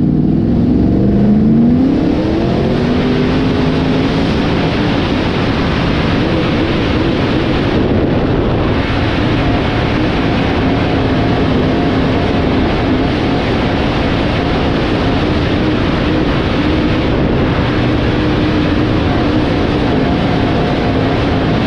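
Dirt modified race cars' V8 engines running hard on the track, a loud steady roar of several cars. One engine's pitch rises as it accelerates in the first couple of seconds, then holds high and wavers.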